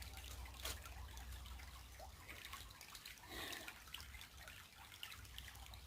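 Small creek trickling faintly, with a few light drips.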